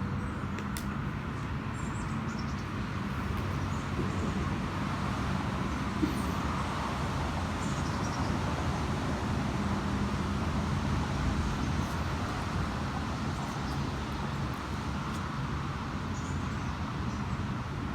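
Steady outdoor background noise with a low, even hum of distant traffic.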